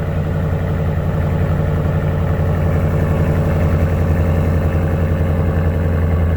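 Toyota Sequoia's 5.7-litre V8 idling steadily through a Corsa cat-back Touring exhaust just after a cold start, a deep, even exhaust rumble.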